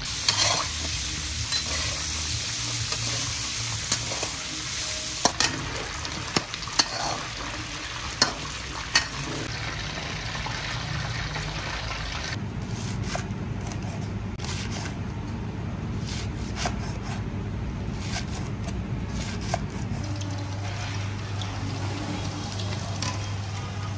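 Food sizzling as it cooks, with metal utensils clinking several times against the cookware. About halfway through the sizzle drops away, leaving a low hum and a few faint clicks.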